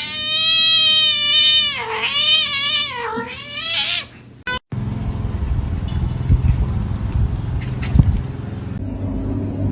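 A cat's long drawn-out yowl, lasting about four seconds and dipping in pitch twice. After a short break a steady low rumbling noise follows, with a few sharp knocks.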